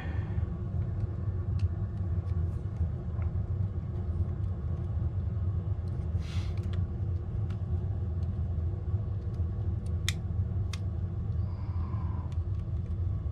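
Steady low rumble throughout, with a brief rustle about six seconds in and a few faint light clicks near the end from small parts being handled.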